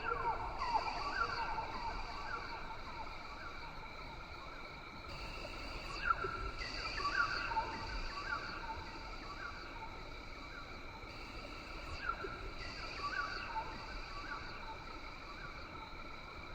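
Rainforest ambience: a steady chorus of insects holding several high tones, with bouts of short, repeated downward-gliding bird calls coming and going.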